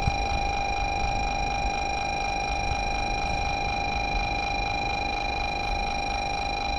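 A platform signal on a Shinkansen platform: a steady electronic tone or electric bell sounds without a break, with a slight rapid flutter. Under it is a low rumble.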